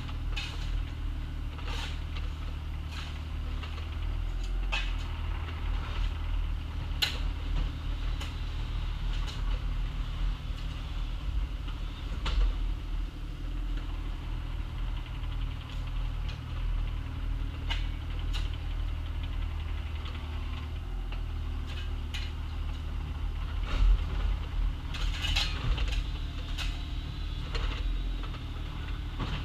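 Excavator engine running steadily while digging, with scattered sharp clanks and knocks of the bucket and gear working in dirt and gravel; the knocks come more thickly near the end.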